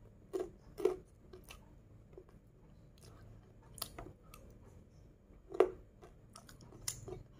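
A child chewing a mouthful of fried rice with crunchy kerupuk crackers, close to the microphone: several short, sharp crunches, the loudest about one second and five and a half seconds in.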